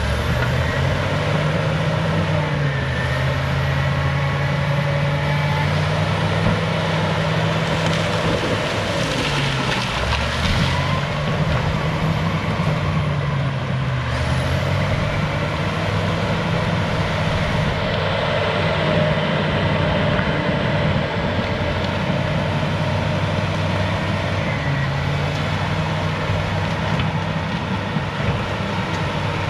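Cat D6H bulldozer's diesel engine working, its note dipping and picking back up several times as the load comes and goes, with faint squeals over the top.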